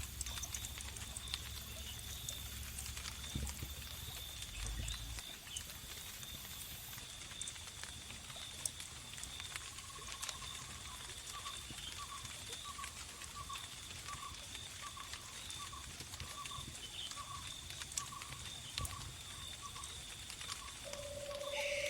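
Wood fire crackling with scattered small pops over a steady high-pitched cricket trill. A low rumble stops about five seconds in, and from about ten seconds a run of short, evenly spaced notes, about two a second, joins in.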